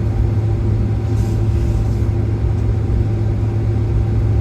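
Steady cabin noise inside a Boeing 767-400 rolling toward the gate after landing: a loud low hum from the idling engines and air systems, with a steady mid-pitched tone over it.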